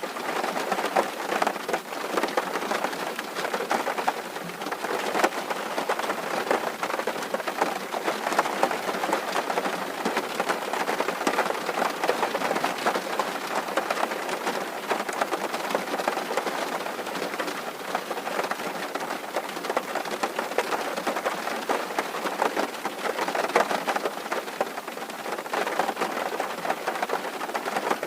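Steady rain drumming on a tin roof: a dense patter of countless drop impacts on the metal sheet.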